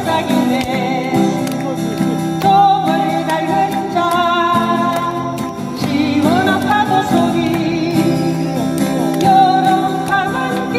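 Acoustic guitar accompanying singing of a Korean sing-along song, the voice sliding and wavering between held notes.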